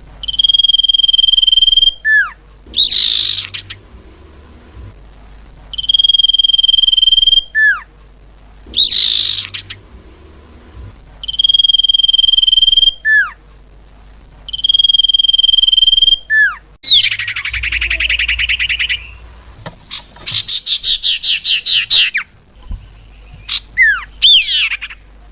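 Common iora (cipau) song: a long, steady, high whistle, held about a second and a half and ending in a quick falling note, then a harsher rasping note. The phrase repeats four times, about every five to six seconds, and rapid buzzy trilled notes follow near the end.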